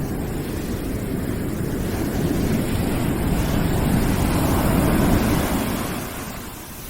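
A deep rushing noise with no tones, swelling louder over a few seconds and dying back down near the end, like a wave washing in.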